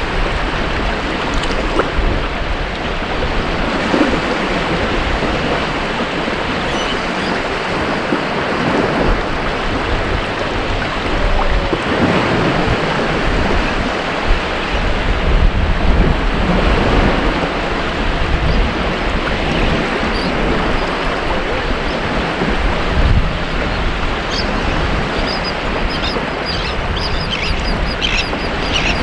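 Ocean waves breaking and washing up a beach: a steady rush of surf that swells louder about twelve and again about sixteen seconds in.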